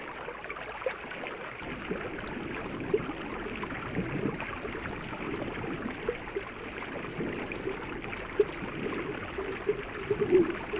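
Water running steadily, like a stream, with small irregular splashes and drips.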